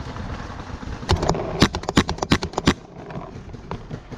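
Paintball markers firing: a rapid, uneven string of about ten sharp pops packed into under two seconds, starting about a second in.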